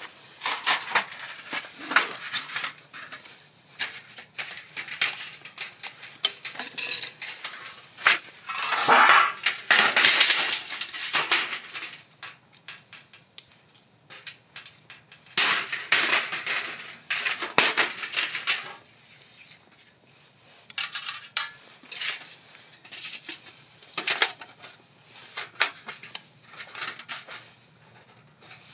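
Metal cooking utensils clinking, knocking and scraping against pots and pans in irregular strokes, with longer scraping stretches about a third of the way in and again past the middle.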